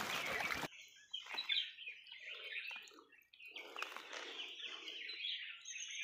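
Birds chirping and calling, with a few lower calls among them. The first half-second holds a short, louder rush of noise.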